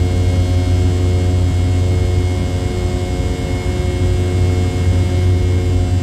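Steady cabin drone from a Boeing 717-200's rear-mounted Rolls-Royce BR715 turbofan engines: a deep hum with several steady whining tones above it.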